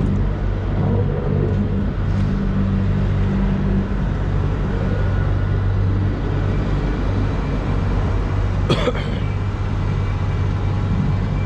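Heavy marine construction machinery running with a steady, low engine drone, and one sharp metallic knock about nine seconds in.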